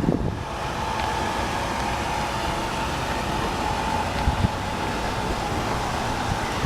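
Chevrolet 3100 V6 idling steadily with a thin, steady high whine over the engine noise; the owner doesn't know the cause of the whine. A single light knock about four seconds in.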